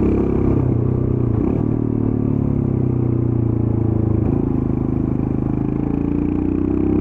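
Royal Enfield Scram 411's air-cooled single-cylinder engine on the stock exhaust, running under way. Its pitch dips about a second and a half in, holds steady, and climbs again near the end.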